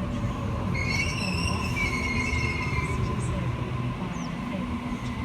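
Sydney Trains Waratah electric train at the platform, with a steady low rumble. About a second in, a high metallic squeal lasts roughly two seconds as the train comes in.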